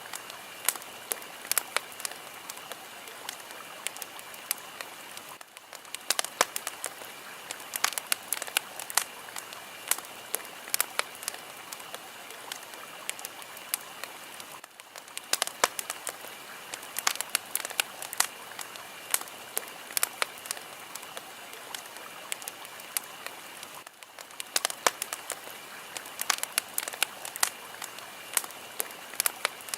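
Fire crackling: a steady hiss full of sharp pops and snaps, with a brief dip in the sound about every nine seconds.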